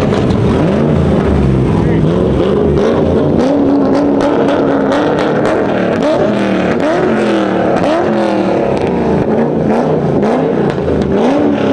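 Car engines revving over and over, the pitch climbing and dropping in quick sweeps several times from a few seconds in.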